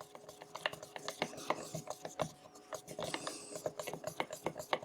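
Irregular light clicks and taps, a few a second, of a stir stick knocking and scraping in a plastic mixing cup as thick, catalysed primer is stirred.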